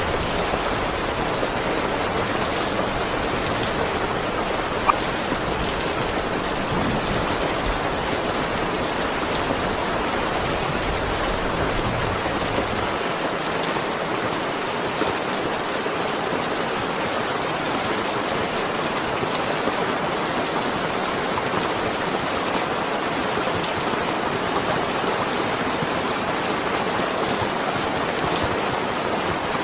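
Heavy rain falling steadily, an even hiss. There is a single sharp click about five seconds in, and a low rumble underneath fades out about halfway through.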